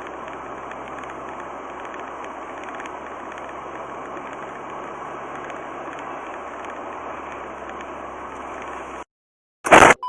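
Steady car cabin noise of engine and road, as picked up by a dash cam's microphone. It cuts off about nine seconds in, and a brief, very loud burst follows near the end.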